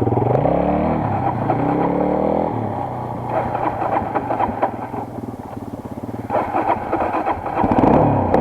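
Single-cylinder four-stroke enduro motorcycle engine under way. The revs climb for about two seconds as it accelerates, then drop back to a lower, uneven running. Near the end the revs rise again.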